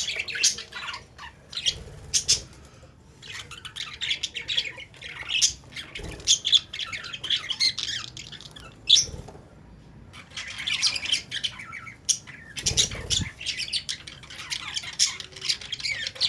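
A flock of caged Australian parrots (budgerigars) chattering: many short, high squawks and chirps overlapping in quick clusters, with a couple of brief lulls.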